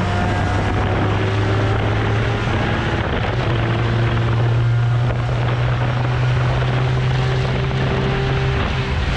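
ESS-supercharged BMW E46 M3 running hard at high revs on track, a loud steady low drone under a wash of noise. Its pitch steps up about three and a half seconds in and drops back slightly near the end.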